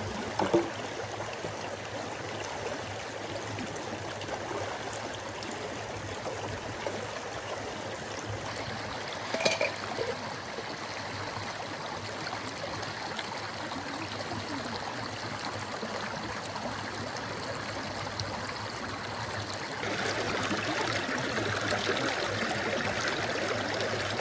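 Mountain river flowing steadily, an even rush of water, with a short sharp sound about halfway through. Near the end the rushing gets louder and brighter.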